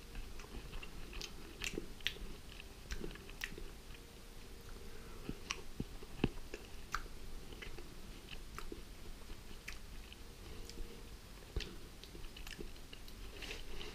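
A person chewing a bite of baked almond feta, crumbly outside and soft inside: faint, irregular small clicks and crackles of the mouth and food.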